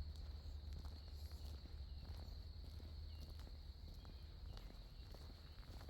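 Footsteps of a person walking along a dirt trail, irregular soft crunches and ticks, over a faint steady high-pitched background chorus and a low wind rumble.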